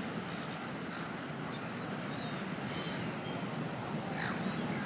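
Steady low outdoor background rumble with a few faint, short high chirps about halfway through.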